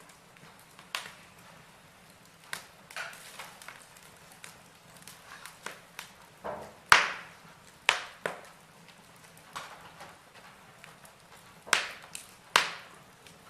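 Wood fire in a fireplace crackling, with irregular sharp pops and snaps from the burning logs, the loudest about halfway through and twice near the end.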